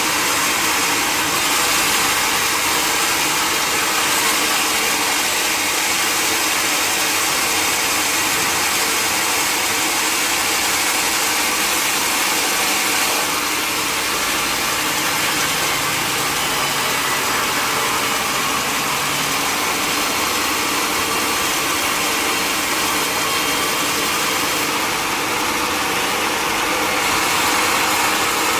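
Sawmill machinery running steadily: a constant, loud mechanical drone with a noisy hiss that hardly changes.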